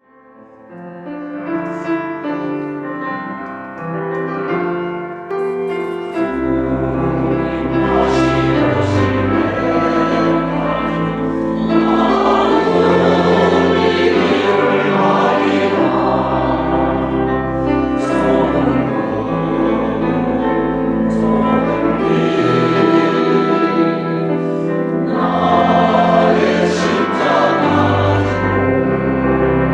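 A church choir singing a Korean gospel hymn with instrumental accompaniment. The music fades in at the start, and a deep bass comes in about six seconds in.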